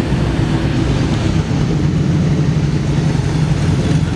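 Lamborghini Gallardo's V10 engine running steadily at low revs.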